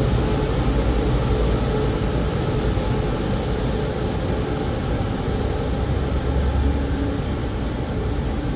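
Train running along a station platform: a steady rumble of wheels on rail with a faint steady hum.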